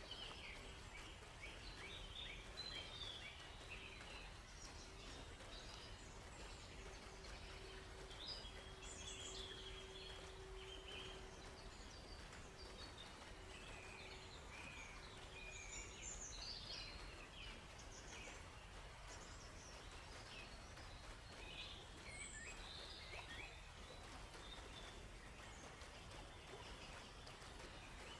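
Several birds chirping and trilling in short, overlapping calls over a faint, steady low background hiss, with a faint held hum in the first half.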